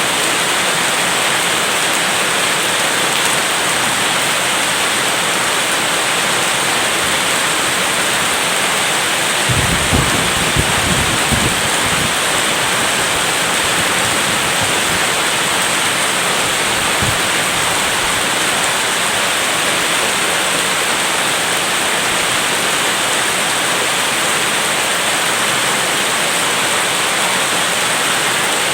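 Steady heavy rain, with a low rumble of thunder rolling in about ten seconds in, crackling for a couple of seconds and then fading over several more.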